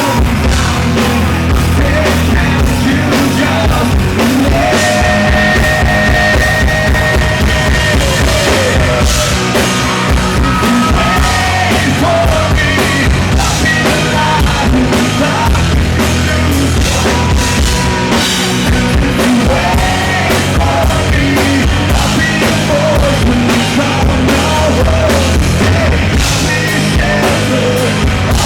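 Rock band playing live, loud: drum kit, electric guitars and held melody lines.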